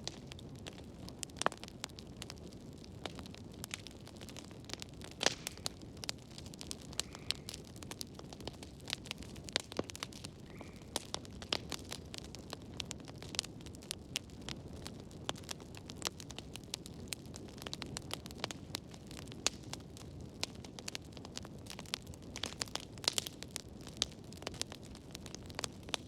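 Wood fire burning in a fireplace: a steady low rush of flames with many irregular sharp crackles and pops.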